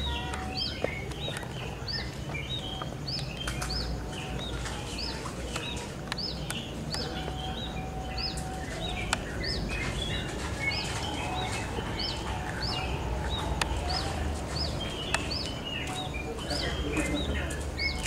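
Small birds chirping, a sharp high chirp repeating about twice a second among other chirps, over a low steady hum.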